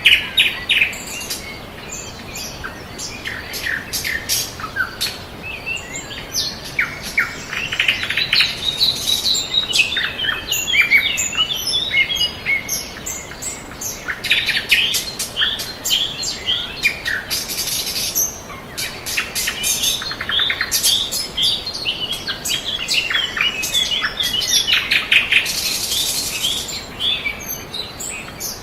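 Several birds chirping and singing at once: a dense, continuous chorus of short high calls overlapping one another.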